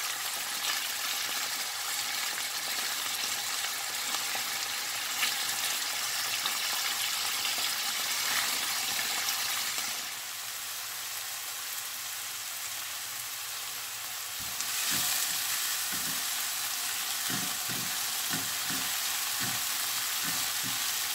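Beef cubes sizzling steadily as they sear over high heat in a nonstick pan, turned with tongs. About ten seconds in it goes softer for a few seconds. Then it gets louder, with chopped peppers and onion frying and a silicone spatula scraping and knocking against the pan in the last several seconds.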